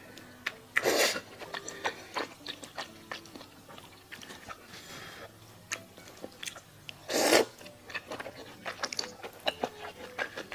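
Close-miked eating: two loud bites, about a second in and again about seven seconds in, with wet chewing clicks and smacks between them.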